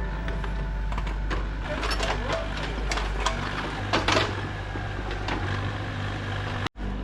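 An engine runs steadily with a low hum, and a few sharp clinks and knocks from the work sound over it in the middle. The sound cuts out briefly near the end.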